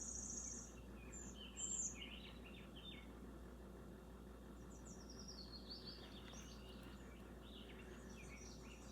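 Pet bird chirping and twittering faintly in short bouts: a quick high trill at the start, scattered chirps, and a falling run of chirps a little past the middle.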